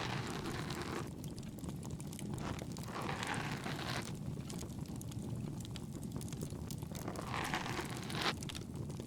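Binaural ASMR ear-cleaning sounds: three slow, soft rubbing strokes in the ear, each about a second long, over the steady crackle of a bonfire.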